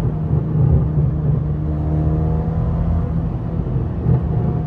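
Mercedes-AMG C63 engine running while driving, heard from inside the car: a steady low drone whose pitch rises a little about two seconds in.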